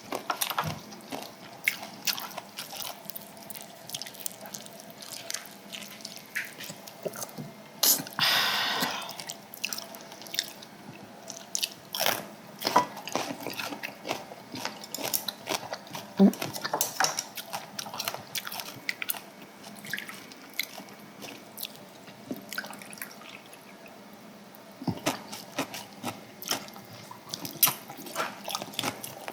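Close-miked eating sounds from a meal of samgyetang and kimchi: chewing, biting and wet mouth clicks, with many short sharp clicks throughout and one longer, louder sound about eight seconds in.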